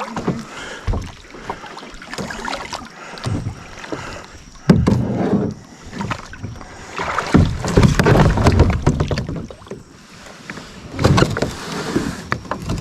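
Kayak moving through shallow water: irregular splashing of paddle and water with hard knocks on the hull, in uneven bursts that are loudest about five, eight and eleven seconds in.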